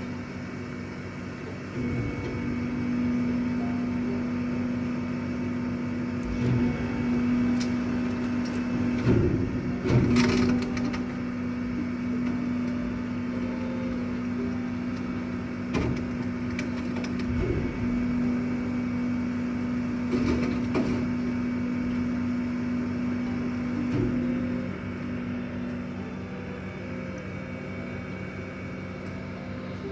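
Collection truck's engine running with a steady hum while bulk items are loaded, with a series of knocks and crashes, the loudest about ten seconds in. The hum sets in about two seconds in and fades out near the end.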